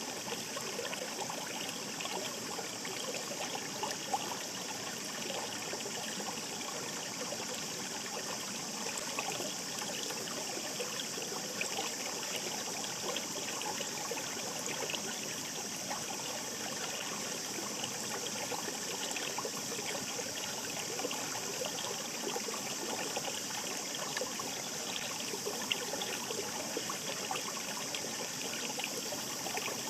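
Shallow mountain stream babbling steadily: an even rush of running water with fine trickling splashes.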